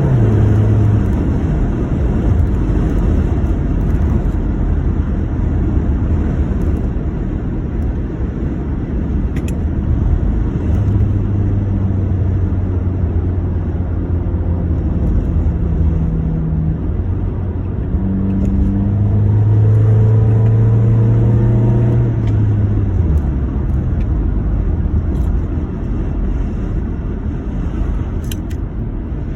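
2009 Honda Accord's engine running with a loud, low rumble. Its pitch rises and falls a few times as the revs change, settling back each time. The owner takes the sound for an intake and exhaust leak.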